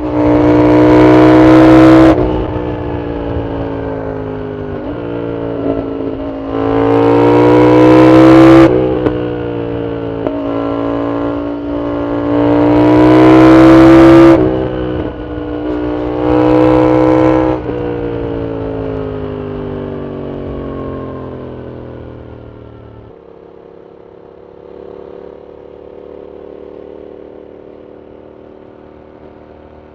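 Yamaha MT-07's 689 cc CP2 parallel-twin engine through a full Arrow exhaust, revving hard in several full-throttle pulls, each rising in pitch and breaking off at a gear change. After about 18 seconds it backs off and winds down, and about 23 seconds in it drops abruptly to a quieter, steady low engine note.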